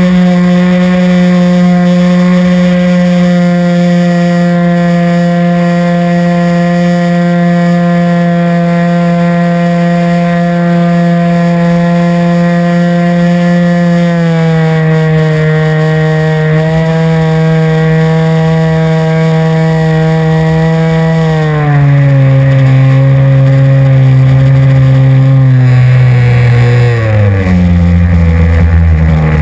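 RC airplane's motor and propeller running at a steady high pitch, then throttled back in two steps, about halfway and about two-thirds through, and winding down lower still near the end, with more air rush in the last few seconds.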